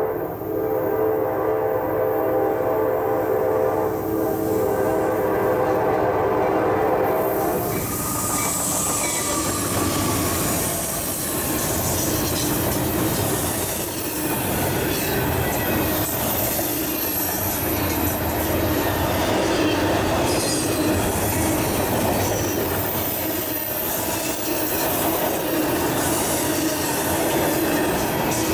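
Norfolk Southern freight locomotives sounding a steady horn blast that cuts off about seven seconds in, followed by the lead units and a long double-stack intermodal train passing close at about 50 mph: wheels clacking over the rail joints with the running rumble of the cars and faint wheel squeal.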